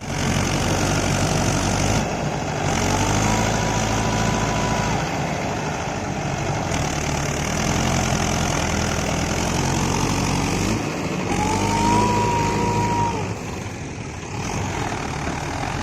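Diesel farm machinery engine running steadily under load, with a high whine that rises and then holds for a second or two, once about two and a half seconds in and again about eleven seconds in.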